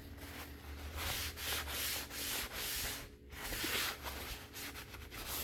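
Paper towel rubbing over a laptop's plastic casing in repeated wiping strokes, polishing it with a little WD-40.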